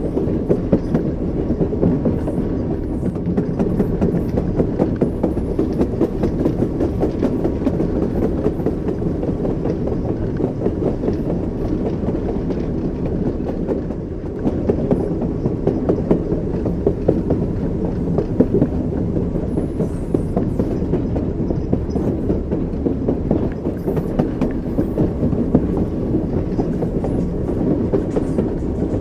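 Train wheels running over rail joints: a steady low rumble with a continuous clickety-clack of wheel knocks.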